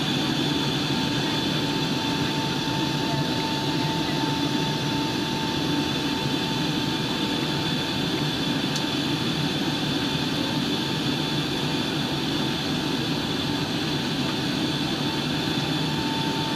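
Steady cabin noise inside a Boeing 757-200 airliner in flight: the rush of air and jet engines, with a constant low rumble and two steady whining tones, one middling and one high. A faint tick about nine seconds in.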